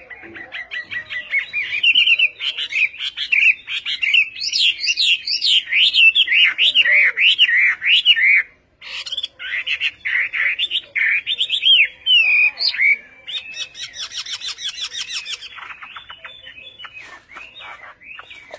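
A songbird singing a long, varied song of rapid whistled notes. There is a brief break about halfway through, after which the song turns to fast, rattling trills.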